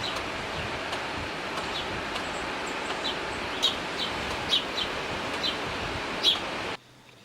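Short, high bird chirps, about ten of them at uneven intervals, over a steady hiss like wind or rustling leaves. Near the end the outdoor sound cuts off abruptly.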